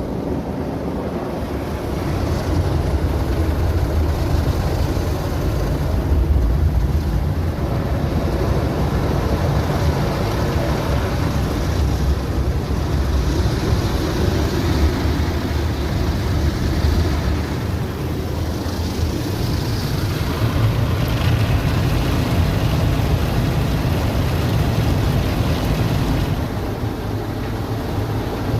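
Automatic car wash machine working on the car, heard from inside the cabin: a steady deep rumble with a swishing hiss that swells and fades as the machine moves over the car.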